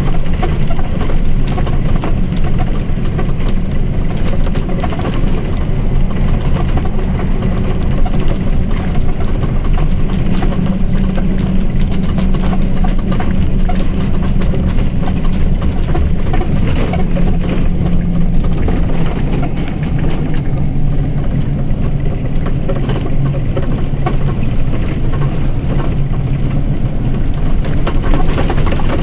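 Mercedes-Benz OF 1722 M bus diesel engine running loud and steady. Its pitch rises a little about ten seconds in and eases back down after about twenty seconds.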